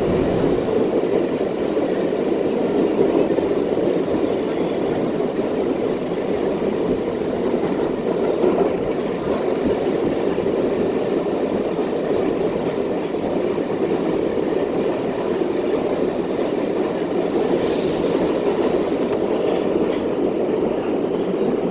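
New York City subway train running, a steady, unbroken noise of a moving train.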